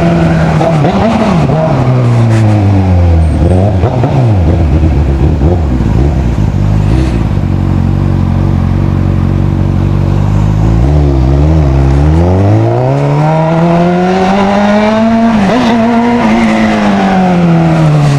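Motorcycle engine running loud under throttle. Its pitch drops over the first few seconds and stays low through the middle. It climbs again over the second half and falls away near the end.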